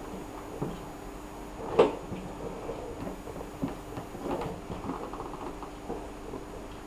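Scattered light knocks and clicks of dent repair tools working a car's trunk lid, with one sharper knock about two seconds in, over a faint steady hum.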